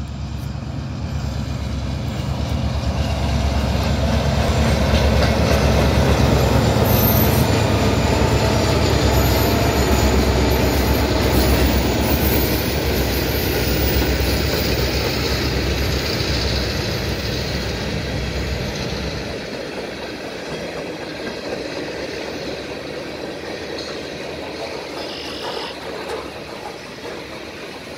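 Freight train with four diesel locomotives passing. The deep engine rumble builds, peaks and fades after about twenty seconds, leaving the lighter rolling clatter of covered hopper cars, with a brief wheel squeal near the end.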